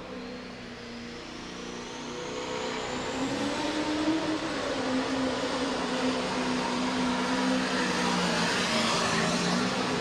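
Massey Ferguson 2805 pro stock pulling tractor with a V8 engine running hard, growing louder over the first few seconds and then holding steady, with a high whine rising in pitch near the start.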